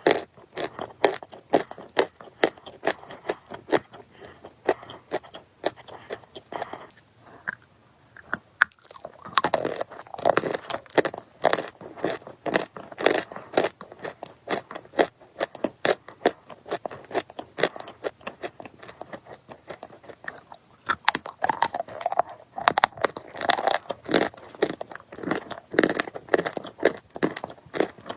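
Close-miked chewing of something crisp: a dense run of crackling crunches, with a short pause about seven seconds in before the crunching resumes.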